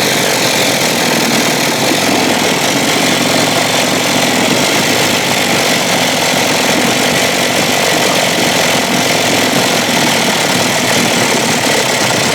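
1956 Evinrude 7.5 hp two-cylinder two-stroke outboard running steadily at low speed, just barely bopping along, with one cylinder cutting in and out. This is from an intermittent spark, which the owner suspects comes from the ignition coil or the plug wire.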